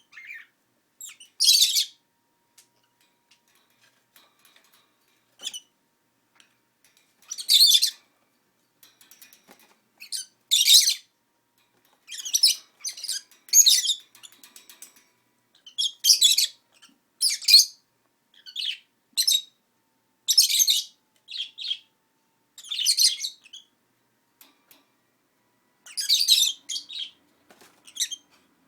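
Pet lovebirds giving repeated short, shrill chirps and squawks in irregular bursts with brief pauses between.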